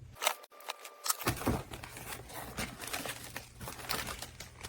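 A cardboard box being opened and the packaging inside handled: an irregular run of clicks, scrapes and plastic crinkling, with the sharpest clicks near the start and about a second in.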